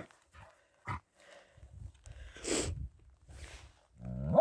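German Shepherd making short whiny, grumbling vocal noises, with a brief breathy burst in the middle and a longer whine starting near the end, the sort of noises it makes while carrying a stick.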